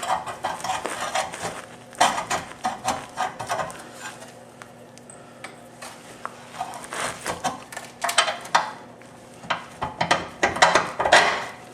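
Metal clinks and knocks of bolts and tools handled against a steel suspension subframe as a bolt is worked through its mount. The clinks come in irregular clusters, with a quieter stretch in the middle.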